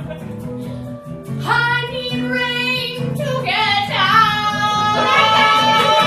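A song performed live by a band: female vocals singing long held notes over a steady accompaniment with guitar.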